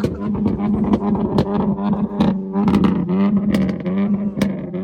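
Car engines being revved repeatedly over a steady idle, the pitch rising and falling with each rev, with many sharp exhaust pops and crackles.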